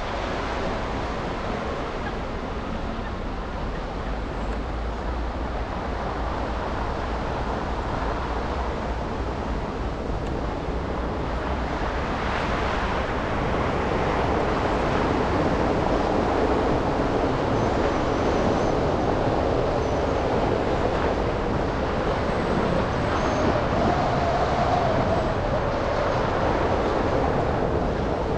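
Steady city traffic and tyre noise from a car driving on snowy, wet streets, a continuous hiss and rumble that gets a little louder about halfway through.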